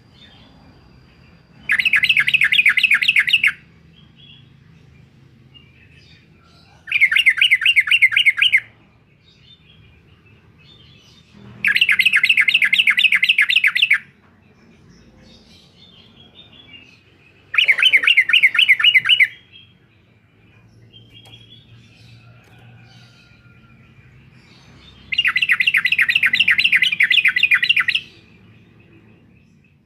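Yellow-vented bulbul (trucuk) giving its rapid "uklik-uklik" chattering call in five separate bursts, each a fast run of repeated notes lasting about two seconds, several seconds apart.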